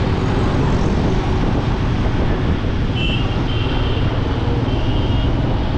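Motorcycle running steadily at road speed, its engine rumble mixed with wind rushing over the microphone.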